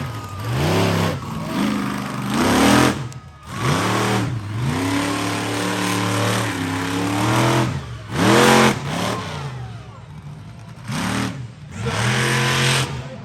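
Monster truck engine revving hard over and over, its pitch climbing and falling with each stab of the throttle, with several brief drops where the throttle comes off.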